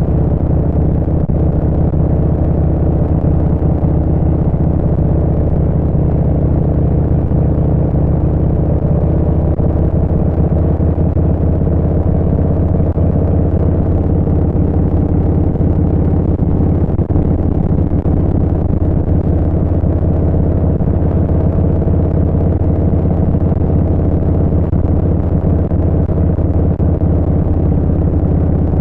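Harley-Davidson Street Bob 114's Milwaukee-Eight V-twin through a Vance & Hines Short Shots full exhaust, running at a steady cruising speed with a steady, even pitch.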